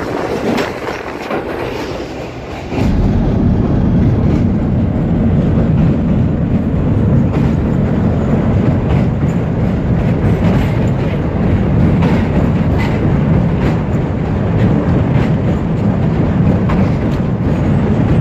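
Passenger train running over a steel truss railway bridge, heard from an open carriage window. About three seconds in, the wheel rumble grows suddenly and steadily louder as the train comes onto the steel spans. Repeated clicks of the wheels run throughout.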